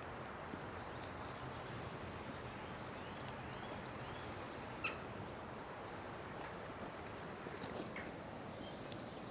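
Faint outdoor birdsong: short phrases of high, quickly falling notes repeated every few seconds, with a thin high trill at times, over a steady soft background hiss.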